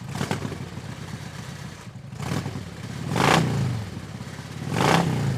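A 2018 Harley-Davidson Ultra Limited's Milwaukee-Eight V-twin running on the road, its pitch rising and falling with the throttle. Over it, a rushing noise swells loudly twice, about three and five seconds in.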